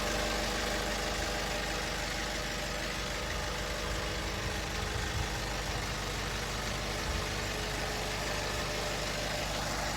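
Nissan Atlas light truck's engine idling steadily.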